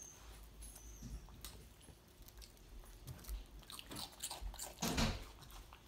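Faint chewing of a sandwich with small wet mouth clicks, and a brief louder noise about five seconds in.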